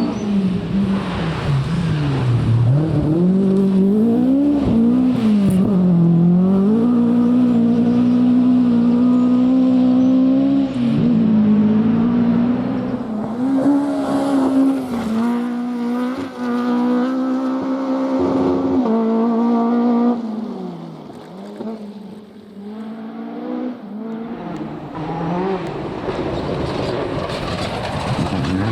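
Rally car engine revving hard as the car drives through the stage, its pitch climbing and dropping repeatedly with gear changes and throttle. It fades away about twenty seconds in, and another car's engine is heard rising as it approaches near the end.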